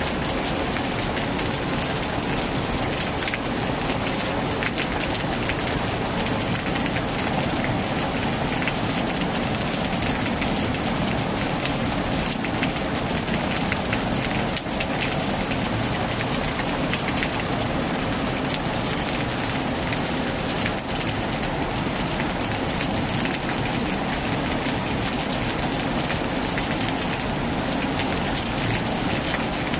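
Heavy rain falling steadily on a tin roof, a dense, even patter of drops with no letup.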